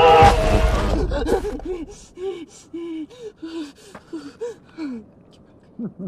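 Loud film music ends on a crash in the first second, then a person gasps for breath in quick, short, panting gasps.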